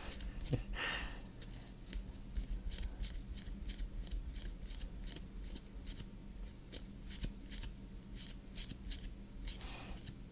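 Trading cards being flipped through by hand: a run of soft card-on-card clicks and swishes, a few a second.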